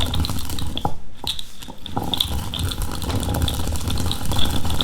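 Hand-turned stone grinder (quern) rotating, its stones rumbling and crunching as whole chickpeas are cracked into split dal, with a rattle of grains. It eases off briefly about a second in, then picks up again.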